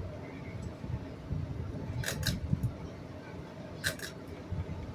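Ceiling fan pull-chain switch clicking as the fan is switched up to high speed: two pairs of sharp clicks about two seconds apart, over a low rumble.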